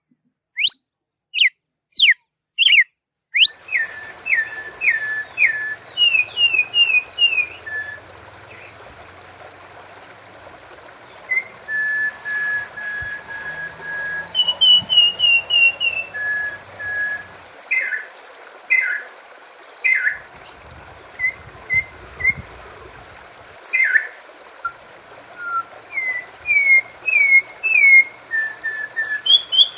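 Songbirds singing in clear whistles. First come sharp, sweeping whistled notes about one every two-thirds of a second. About three and a half seconds in, a different recording takes over: varied whistled notes and short runs of repeated notes over a steady background hiss.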